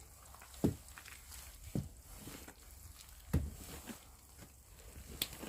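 Three dull, low thuds over a quiet background, with a few faint sharp clicks in between.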